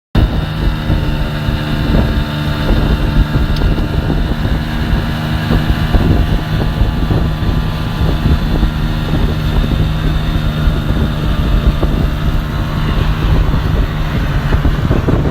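An engine running at a steady speed, its pitch unchanging, with wind buffeting the microphone.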